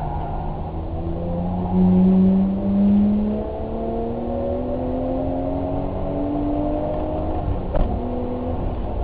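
Vehicle engine accelerating, its note climbing slowly in pitch for several seconds and louder for a moment about two seconds in, with a sharp click near the end.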